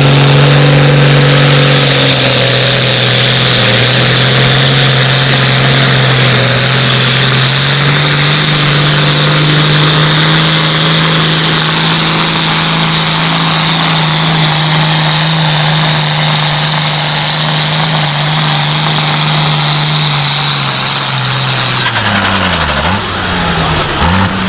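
Tractor-pulling tractor's engine running flat out at a steady high pitch under load during a pull, with a high whine above it. About twenty-two seconds in the revs drop and rise and fall a few times.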